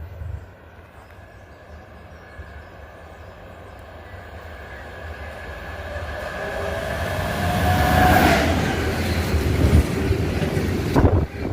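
Electric freight train, a class 186 TRAXX locomotive hauling tank wagons, approaching and passing. The rumble grows steadily louder, and a whine falls in pitch as the locomotive goes by about eight seconds in. The wagons' wheels then clatter and knock over the rail joints.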